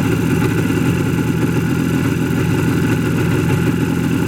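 IZh Jupiter-4 motorcycle's two-cylinder two-stroke engine idling steadily and evenly, with no rattling or clattering. A new condenser and high-voltage ignition coil are fitted.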